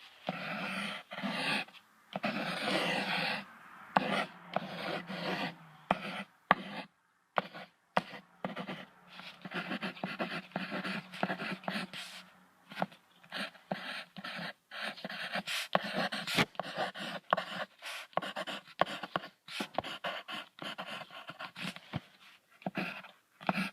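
Wolf sounds: rough, breathy panting and short growly bursts that start and stop many times, following on from howling.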